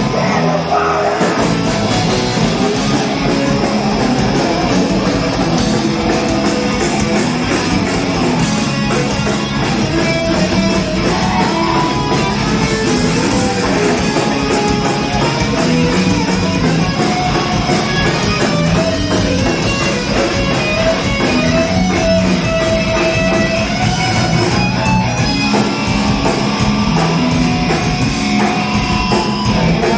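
Rock band playing live: electric guitar and drum kit, loud and continuous, with the low end filling in about a second in.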